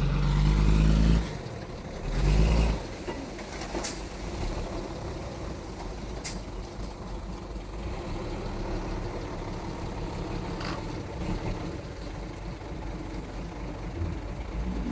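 Heavy diesel engine of earthmoving machinery running, with two loud surges in the first three seconds, then a steady working drone.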